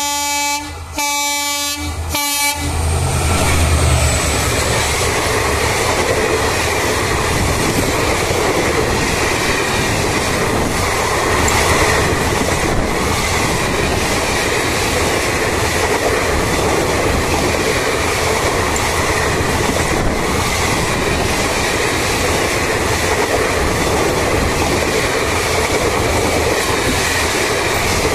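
Indian Railways diesel locomotive's horn sounding, broken twice briefly and stopping about two and a half seconds in. The locomotive's engine then rumbles past close by. A long rake of passenger coaches follows, rolling past with a steady rumble of wheels and clickety-clack over the rail joints.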